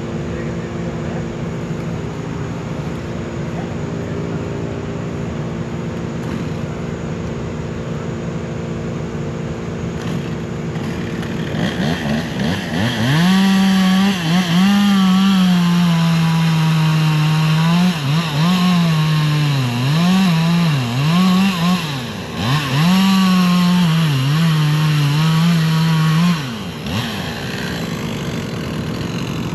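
A steady engine hum, then a chainsaw revs up about twelve seconds in and cuts for about fourteen seconds, its pitch repeatedly dipping and recovering as the chain bites into the wood. It cuts off near the end, leaving the steady engine hum.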